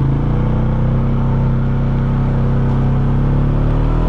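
Polaris Sportsman 570 ATV's single-cylinder engine pulling steadily under load while climbing a hill, its pitch rising slowly through the second half.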